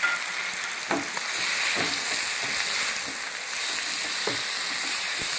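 Chicken pieces sizzling steadily as they fry in oil in a nonstick pan, with a wooden spatula stirring them and scraping against the pan a few times.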